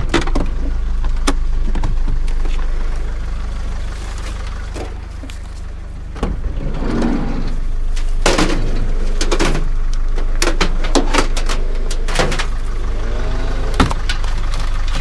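Van engine idling steadily under scattered knocks and metal clanks as scrap such as push bikes is handled and loaded.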